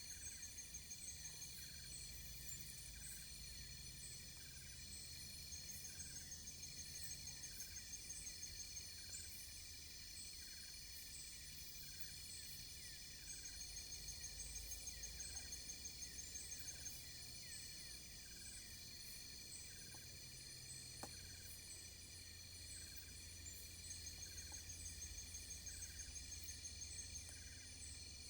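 A faint, steady chorus of insects such as crickets and cicadas. Several high, unchanging trills overlap, with regular chirps about once a second, over a low rumble.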